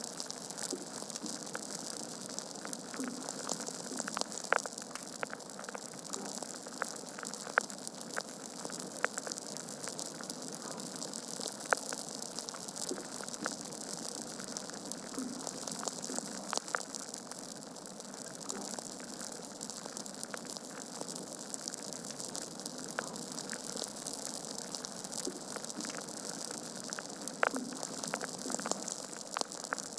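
Wood logs burning in a fireplace, crackling: a steady hiss with frequent irregular sharp pops, a few of them noticeably louder.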